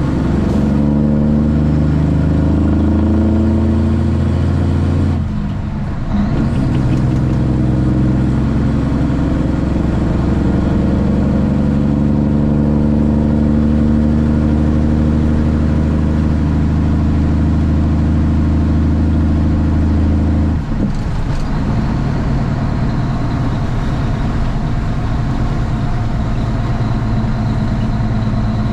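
Straight-piped Cummins ISX diesel of a Kenworth T800 truck pulling under load, its pitch slowly rising. About five seconds in there is a short break for a gear change, then it pulls and climbs again. About twenty seconds in it lets off and settles to a lower, steady running note.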